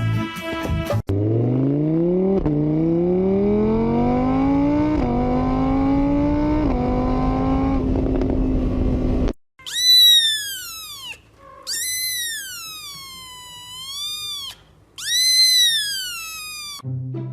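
A car engine accelerating through the gears: its pitch climbs, drops back at each of three shifts, then holds steady. This is followed by three long, high-pitched, wavering calls.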